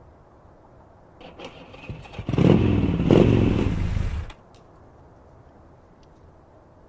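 Motorcycle engine fired up and revved for about two seconds, then cut off suddenly. A few clicks and clatter come just before it.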